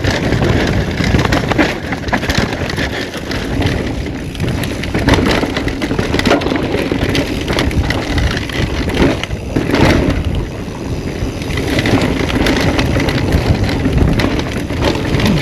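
Mountain bike descending a steep, rocky trail: a continuous rough rush of tyres over rock and dirt with frequent knocks and rattles from the bike clattering over bumps.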